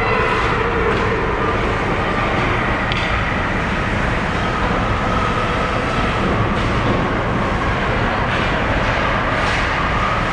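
Steady rumbling noise of a hockey arena during a game, with a few sharp clacks scattered through it.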